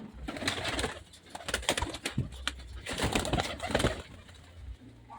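Pigeons cooing, mixed with many sharp clicks and scuffling noises.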